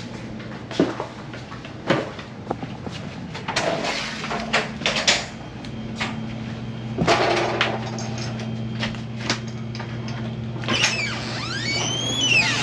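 Scattered knocks and clatter of things being handled and set down, over a steady low hum. A short squeak that slides up and down in pitch comes near the end.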